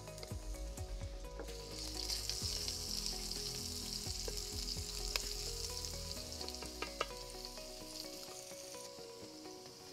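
Julienned ginger and a crushed cumin-garlic paste sizzling in hot oil in a metal pot, stirred with a wooden spatula that clicks and scrapes against the pot now and then. The sizzle grows louder about a second and a half in.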